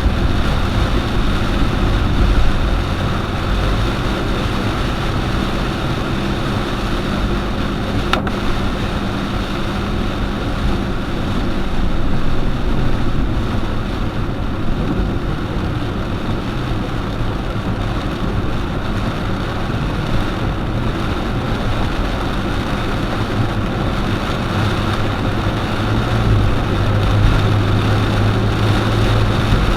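A car being driven in the rain: steady low engine hum under an even hiss of tyres and rain on the wet road. There is a single short click about eight seconds in, and the engine note grows stronger near the end.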